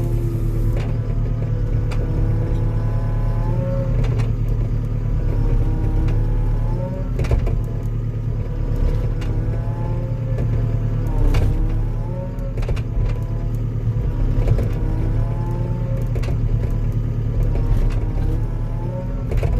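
Skid steer's engine running steadily under load, with a hydraulic whine that rises and falls in pitch as the machine pushes against trees to uproot them. Several sharp knocks or cracks come through at intervals.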